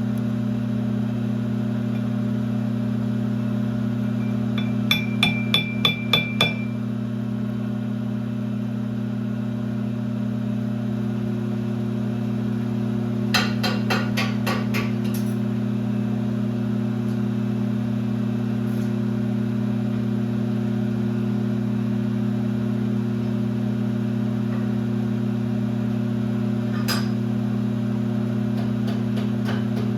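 Rapid hammer taps on metal in two quick bursts of several strikes each, about four a second, and one more strike near the end, over a steady workshop machine hum.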